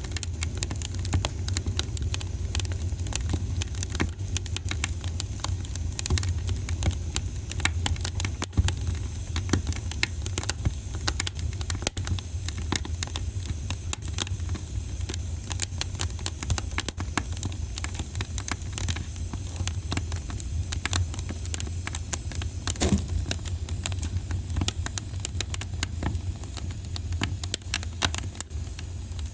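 Wood fire in a fireplace crackling, with a steady stream of small pops and snaps over a constant low rumble of the flames.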